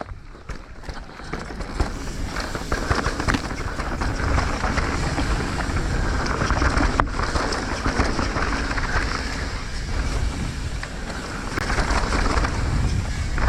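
Mountain bike running down a dirt trail: wind buffeting the microphone over tyre noise and the rattle and clicks of the bike, growing louder over the first few seconds.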